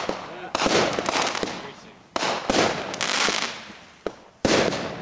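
Consumer fireworks going off: sharp bangs about four times, roughly every second and a half, each trailing off in a fading crackling hiss.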